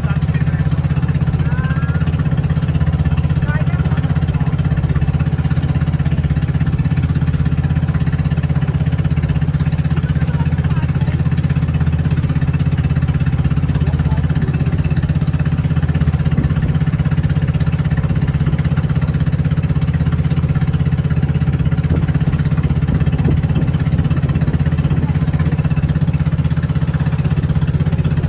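Boat engine running steadily at a constant speed: a loud, even, rapidly pulsing low drone.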